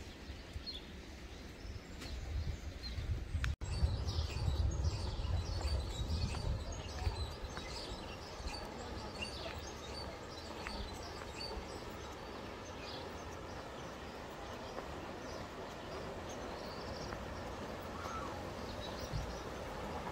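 Small songbirds chirping and singing, many short calls over a steady outdoor hiss, with a low rumble underneath during the first part.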